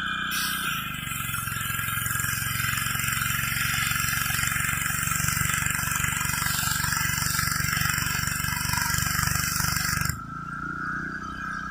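Gas pressure washer with its engine running steadily and a high-pressure water jet hissing against concrete. The spray starts just after the opening, and the engine note dips as it takes the load. The spray shuts off about ten seconds in while the engine keeps running.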